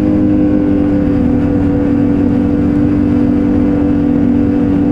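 Ski-Doo Renegade X-RS 850 snowmobile's two-stroke engine running at a steady speed, its note holding one pitch, over a rough rumble of track and wind.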